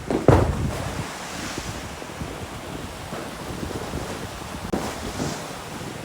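Wind gusting across the microphone in a snowstorm, a rough rushing noise with a strong buffet just after the start and another swell near the end.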